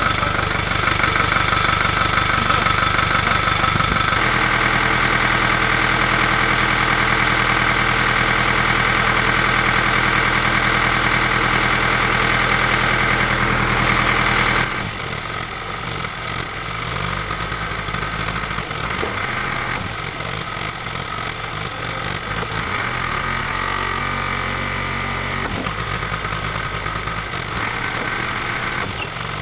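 An engine running steadily. It picks up speed about four seconds in, then drops back to a quieter, uneven running about halfway through.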